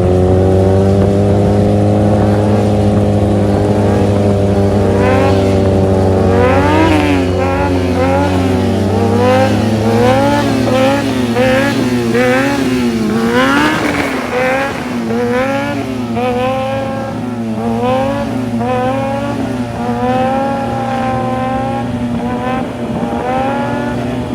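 Motorcycle engines running with a steady drone. From about five seconds in, quick throttle blips make the pitch rise and fall again and again.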